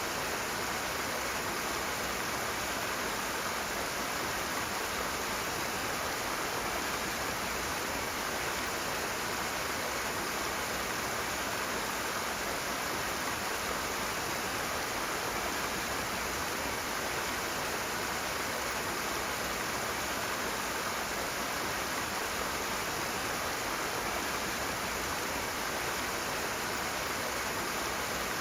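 Rushing water: a steady, even rush of flowing water that does not change.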